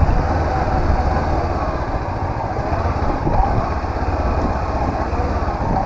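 Honda CB500X's parallel-twin engine running at a steady pace while riding, a dense low rumble with no sharp revs.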